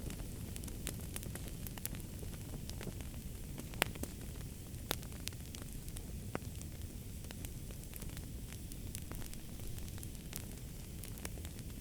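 Wood fire crackling and popping in a fireplace over a steady low rumble of the burning, with scattered sharp snaps, the loudest a little under 4 seconds in and another about 5 seconds in.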